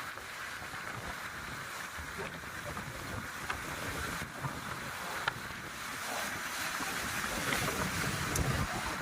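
Wind gusting against the microphone, with sea surf washing on the rocky shore behind it; the gusts swell near the end.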